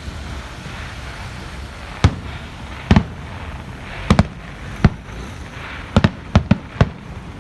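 Aerial firework shells bursting: about ten sharp bangs at irregular intervals, some in quick pairs and several close together near the end, over a steady low background rumble.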